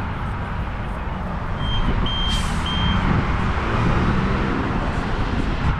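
Service-station tyre inflator beeping three short times, with a brief hiss of air at the valve, over a steady low rumble.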